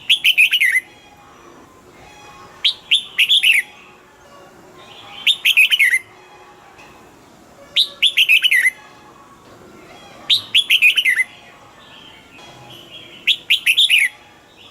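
Red-whiskered bulbul singing the same short phrase over and over, about every two and a half seconds, six times. Each phrase opens with a sharp upslurred note and runs into a quick string of whistled notes that fall in pitch.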